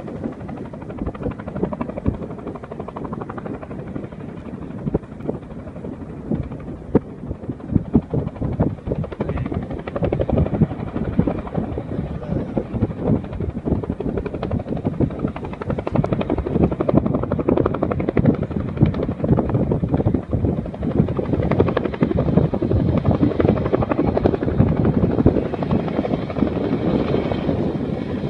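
Helicopter rotor chopping steadily overhead, growing louder from about ten seconds in as the aircraft comes closer.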